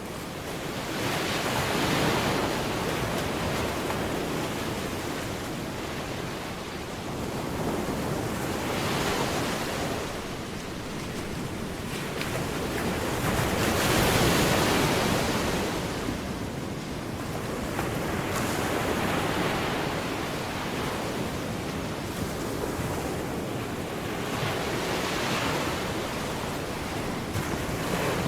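Ocean surf: waves breaking and washing back, swelling and fading about every five or six seconds.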